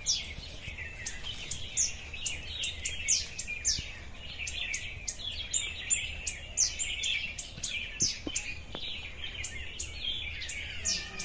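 Many small birds chirping in a dense, continuous chorus of short, high, downward-sweeping calls, several a second.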